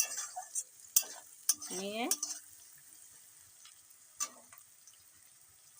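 Onions and green chillies frying in mustard oil in a kadai with a faint, steady sizzle. A spatula knocks and scrapes against the pan several times, the last sharp knock about four seconds in.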